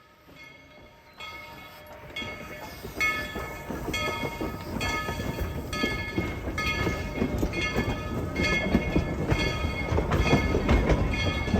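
Steam train led by locomotive No. 190 drawing nearer, its running noise growing steadily louder. A rhythmic beat repeats about every 0.6 s over a deepening rumble.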